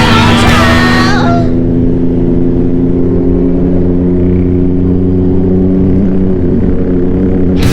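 Motorcycle engine running steadily, a low, even hum whose pitch rises a little near the end. Rock music plays over it for the first second and a half, then drops out, and comes back in at the very end.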